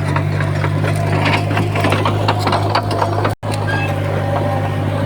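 Small crawler bulldozer's diesel engine running steadily, with frequent sharp clicks and clanks from the tracks and stones. The sound cuts out for an instant about three and a half seconds in.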